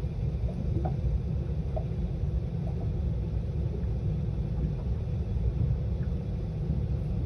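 Wind buffeting the microphone outdoors: an uneven low rumble, with a few faint short sounds in the distance.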